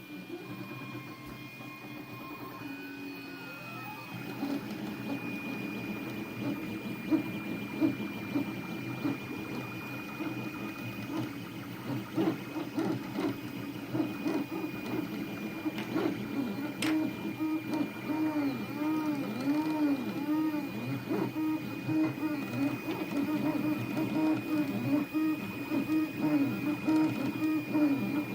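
A8 3D printer running a print: its stepper motors whir in quick rising and falling pitch sweeps as the head and bed change direction, with small clicks, over a steady high whine.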